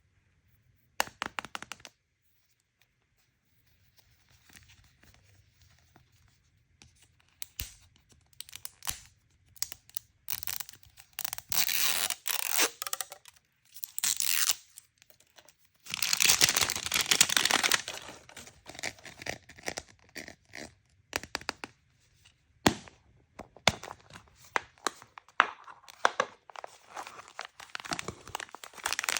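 Toy packaging being torn open and crinkled by hand, in irregular short rustles and tears with two longer stretches of tearing past the middle.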